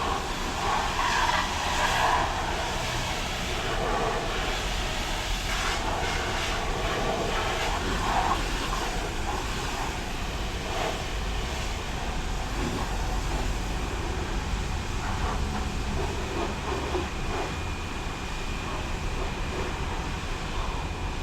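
Automatic car wash machinery running: a steady mechanical rumble and hiss with occasional knocks, and a faint steady whine coming in near the end.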